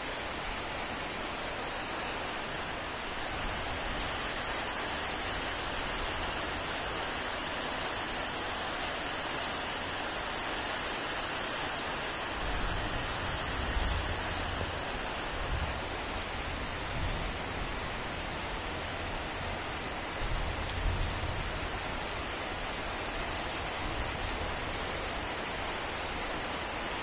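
Steady rain falling on trees and grass, an even hiss throughout, with a few brief low rumbles near the middle.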